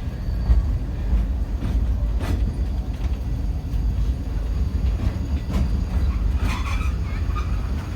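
Great Orme Tramway cable-hauled tramcar running downhill on its rails, heard on board: a steady low rumble with a few sharp knocks and clacks from the wheels and track.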